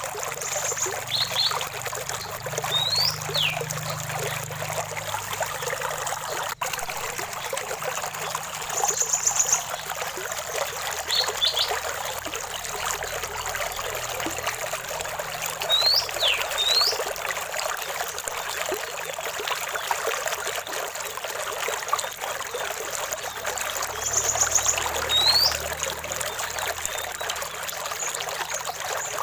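Running water trickling and splashing steadily, with birds calling now and then over it: a short high trill, quick paired notes, and rising and falling whistled glides that recur several times.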